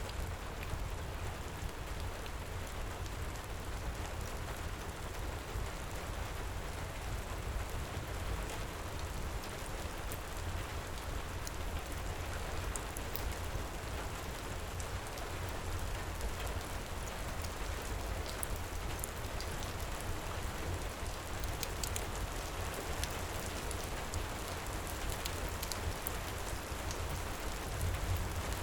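Steady heavy rain pouring, with a low rumble underneath and faint, scattered high crackles from a wood fire.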